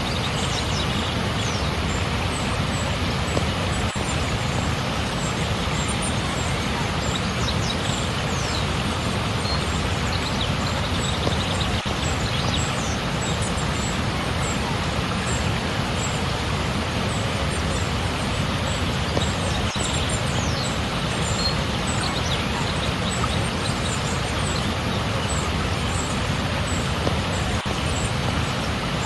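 Steady, loud rush of flowing water, with many short, high chirps from small birds scattered through it.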